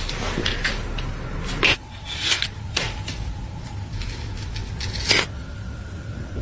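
Workshop handling noises: about ten scattered clicks, taps and short scrapes, as tools and metal parts are picked up and set down, over a faint steady hum.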